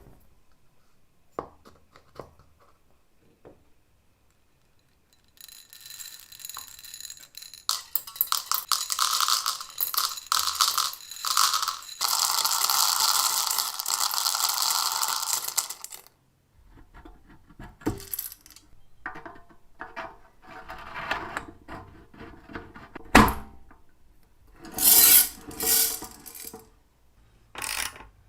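Metallic rattling and scraping of small hard parts, sustained for about ten seconds, then scattered clicks and short clattering bursts, with one sharp click standing out.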